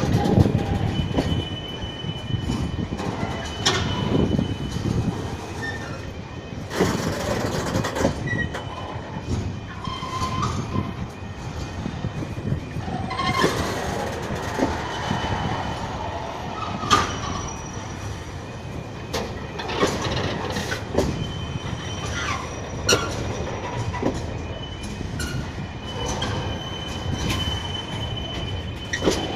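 Train passing over a level crossing: a continuous rumble of wheels on rail, with repeated sharp knocks and clanks and, at times, a thin high wheel squeal.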